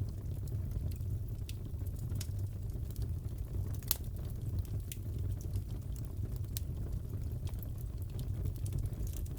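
Crackling wood fire: a steady low rumble of flames with scattered sharp pops and crackles, one louder pop about four seconds in.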